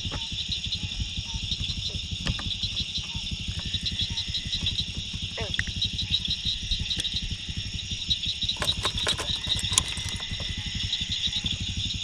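Night insects chirping in a steady chorus of fast, even pulses, over a low, steady rumble. A few sharp clicks come about nine seconds in.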